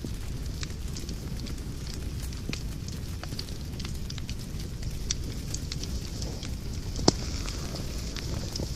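Wood fire burning in a fireplace: crackling, with a steady low rumble and hiss and scattered sharp pops, the loudest pop about seven seconds in.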